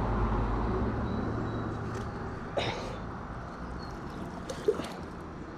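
A motor vehicle's engine and tyres rumbling and fading as it moves away, with a few short clicks.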